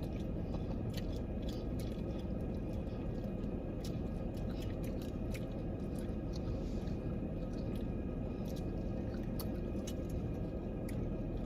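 A person chewing and biting into crispy fried chicken wings, with small scattered crunchy clicks over a steady low background hum.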